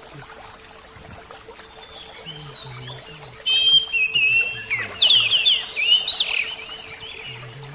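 Oriental magpie-robin (kacer) singing: a burst of varied clear whistles and quick slurred notes starting about three seconds in and lasting around three and a half seconds, over a faint steady hiss.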